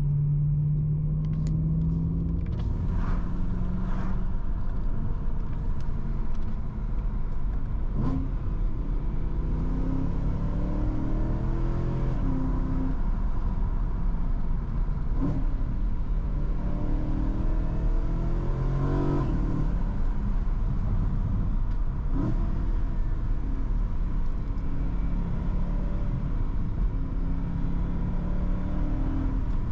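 BMW M3 V8 on its stock exhaust with M Performance catback, heard from inside the cabin while driving: a subdued engine drone over road rumble, its pitch climbing and dropping several times as the car accelerates and shifts.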